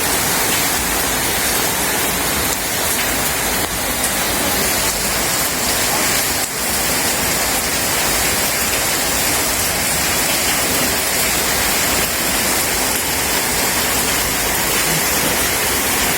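Steady rain falling, a loud, even hiss of downpour that holds without a break.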